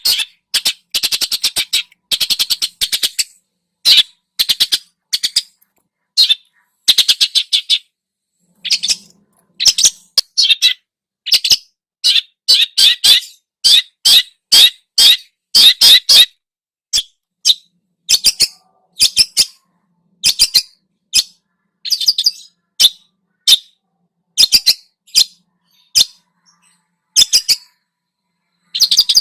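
Songbird masteran recording: a bird chatters in quick bursts of rapid, harsh notes, each phrase lasting about a second with short pauses between them. This is the kind of busy chatter (besetan) used to train other songbirds.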